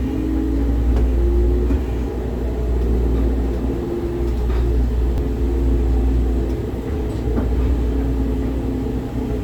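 Airport terminal-shuttle train running with a steady low rumble.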